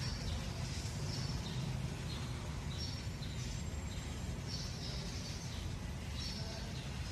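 Birds chirping, short high calls coming every second or so, over a steady low background rumble.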